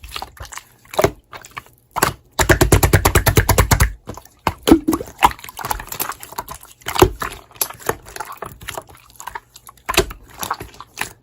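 Slime being squished and poked by hand, giving wet, irregular clicks and pops, with a fast run of loud clicks for about a second and a half, a couple of seconds in.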